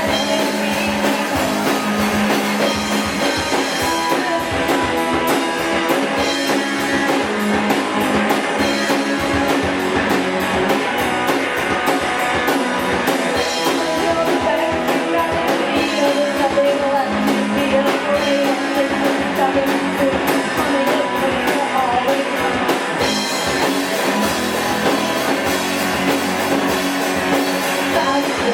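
Live rock and roll band playing a song: guitars and a drum kit, with a voice singing over them.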